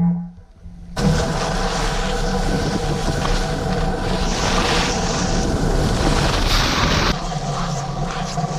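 A motor's steady whine cuts out, and about a second later loud motor noise comes back in, running steadily with a rushing hiss over it and easing slightly near the end.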